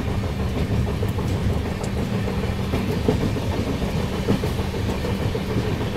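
Passenger train running along the track: a steady rumble of wheels on rails with a low hum and a few scattered clacks.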